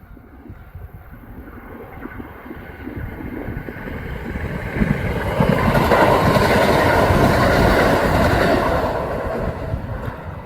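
Kintetsu electric train passing at speed, its wheels clattering over the rail joints. It grows louder to a peak about two-thirds of the way through, then starts to fade.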